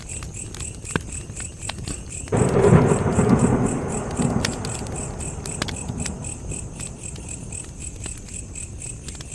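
Wood fire crackling with scattered sharp pops. A low rumble starts suddenly about two seconds in and slowly fades over the next several seconds.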